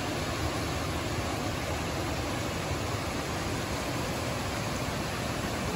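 Steady rushing of a waterfall on a mountain stream, an even roar of falling water with no breaks.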